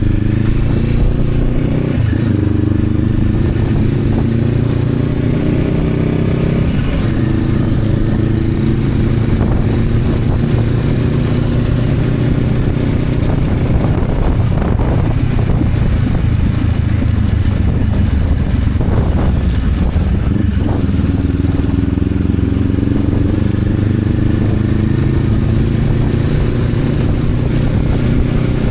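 Honda CB500X parallel-twin engine running under way. Its pitch rises as it accelerates in the first few seconds and again from about two-thirds of the way through, with a noisier, rougher stretch in the middle.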